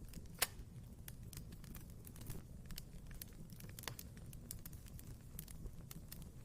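Wood fire in a fireplace crackling: irregular sharp pops and snaps over a low, steady rumble. The loudest pops come about half a second in and again just before four seconds.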